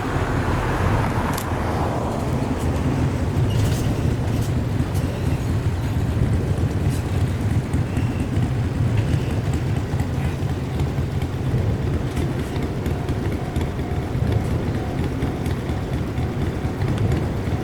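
Steady low rumble of a running vehicle, with a few faint clicks and, in the second half, a faint steady tone.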